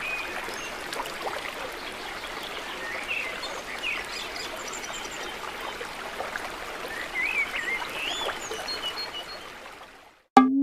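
Nature ambience of a running stream, with birds chirping now and then over the water. It fades out near the end.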